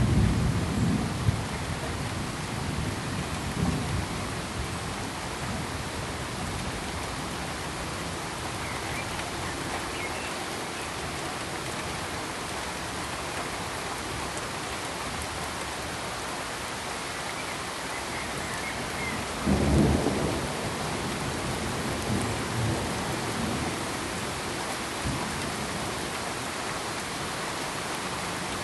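Steady, even hiss like heavy rain, with low rumbles of thunder at the start and a louder rumble about twenty seconds in.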